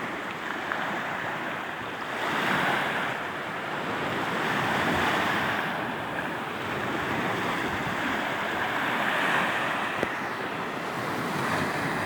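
Sea waves washing onto the shore, a steady rush of surf that swells and eases every few seconds, with wind on the microphone.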